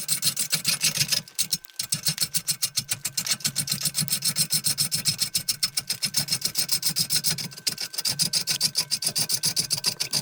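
Turning tool cutting an out-of-round poplar log spinning on a wood lathe: the tool catches the high spots every turn, making a fast, even rhythm of chattering cuts. The interrupted cut is the sign that the blank is not yet round.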